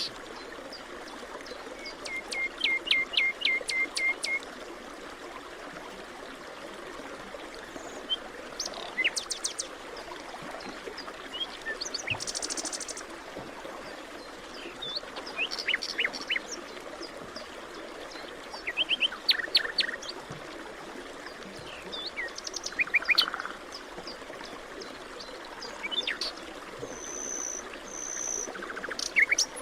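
Forest birds chirping and calling in turns, including a fast trill of about a dozen notes about two seconds in and a high buzzy call near the end, over a steady rushing background.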